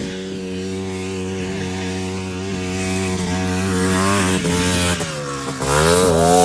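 Quad bike engine running at a steady pitch, then revving up about four seconds in, easing off briefly and revving up again near the end.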